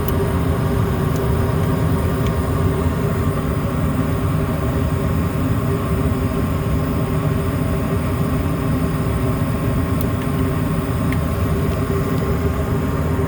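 Gas furnace running at full fire: a steady, even rumble of the burners and blower with a constant motor hum over it.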